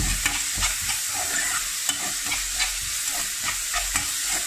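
Chopped onion, garlic, red pepper and ginger sizzling as they fry in olive oil in a metal saucepan, stirred with a spoon that scrapes and knocks against the pot several times a second.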